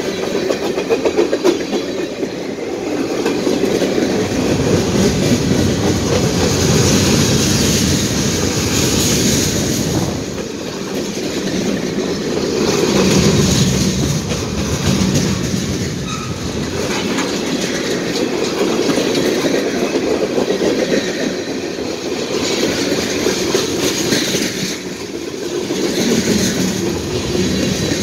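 Loaded freight cars, tank cars and boxcars, rolling past close by: a steady loud rumble of steel wheels on rail with a fast, even patter of clicks and rattles, swelling and easing a little as the cars go by.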